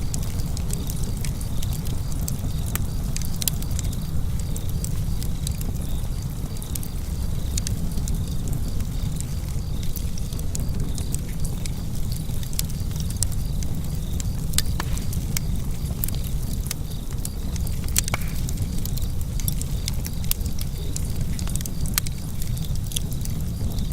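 Wood fire in a fireplace burning with a steady low rumble and frequent sharp, irregular crackles and pops.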